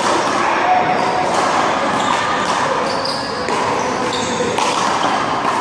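A rubber handball being struck during a one-wall handball rally, with several sharp smacks off hands, wall and pavement over a steady noisy background.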